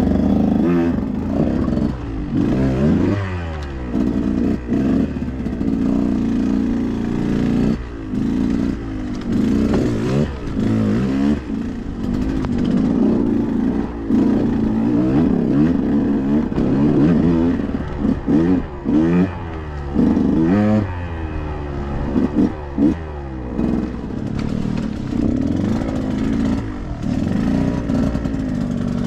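Two-stroke engine of a KTM 125XC dirt bike being ridden, revving up and falling back over and over as the throttle is worked, with clatter from the bike over rough ground.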